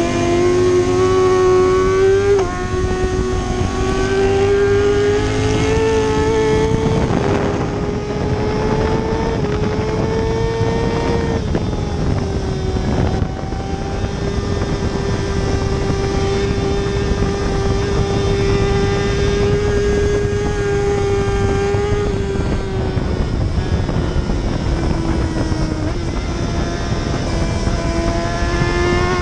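A superbike engine at high revs under racing load. Its pitch climbs and then drops sharply with gear changes about two seconds in and again around eleven to thirteen seconds. It holds nearly steady through the middle, sags slightly, then climbs again near the end.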